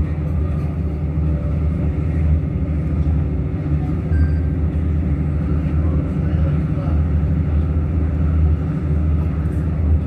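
Passenger train running at speed, heard from inside the carriage: a steady low rumble of wheels on the track.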